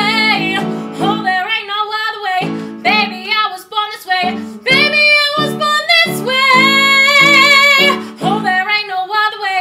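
A female voice singing a melody over guitar accompaniment, holding one long wavering note about two-thirds of the way through.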